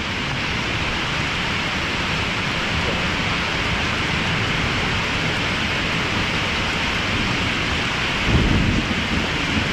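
Heavy rain pouring steadily during a thunderstorm, with a low rumble of thunder swelling up about eight seconds in.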